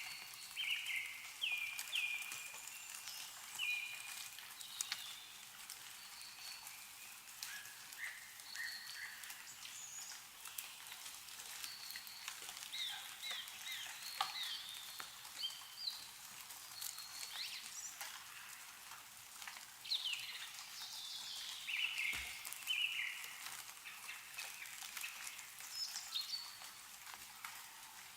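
Meltwater dripping and pattering from snow-covered trees, a steady fizz of many small ticks, with small birds chirping throughout in short calls and quick falling notes.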